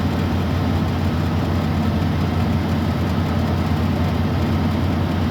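1973 Plymouth Duster's engine idling steadily, still warming up after a cold start.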